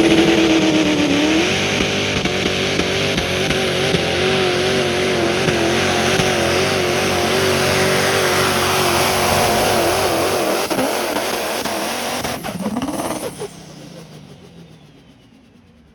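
Pickup truck engine held at high revs under heavy load, pulling a sled, its pitch wavering slightly as it works. About 13 seconds in, the revs swoop briefly and the engine drops away sharply as the pull ends.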